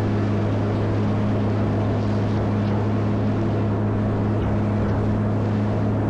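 Caterpillar 140M motor grader's diesel engine running at steady speed, a constant low drone.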